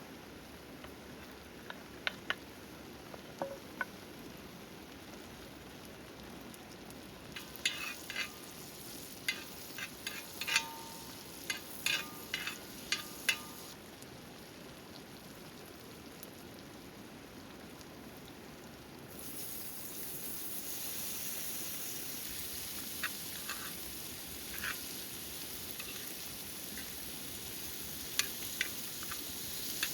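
Food sizzling in a hot pan, with a run of sharp clicks and taps in the middle. About two-thirds of the way through, the sizzle turns louder and brighter.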